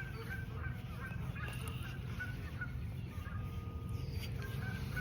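Birds calling in a rapid series of short calls, a few a second, that pause around the middle and start again near the end, over a steady low rumble.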